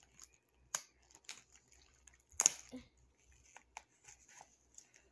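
Packaging being torn open by hand: scattered crackles and rips, the loudest about two and a half seconds in.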